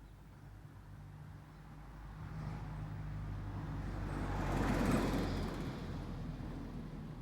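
A car driving past: its engine and tyre noise swell, peak about five seconds in, then fade away.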